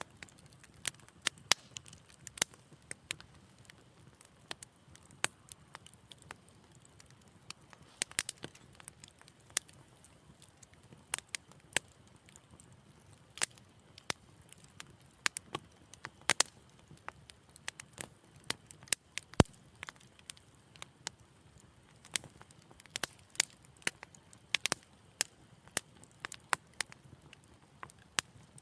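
Fire in a fireplace crackling: irregular sharp pops and snaps, some in quick clusters, over a faint low hiss, with one louder pop about two-thirds of the way through.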